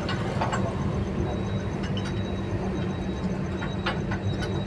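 A motor running steadily with a low hum, with a few short clicks and knocks scattered through it.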